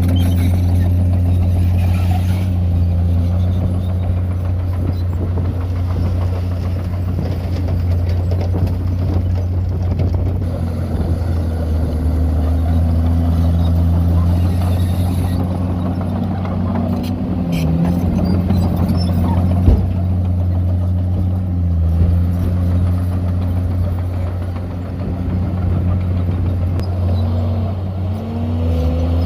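Heavy diesel engine of earthmoving machinery running steadily under load, its pitch dipping and recovering a few times as the engine speed changes. A single sharp knock comes about two-thirds of the way through.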